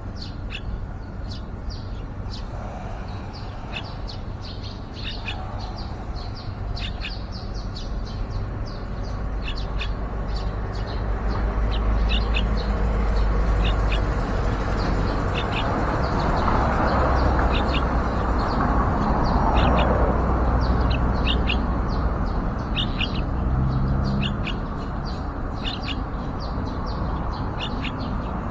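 Yellow-vented bulbuls chirping: a steady run of short, high, thin chirps repeating all through, over a low rumble that swells in the middle and eases near the end.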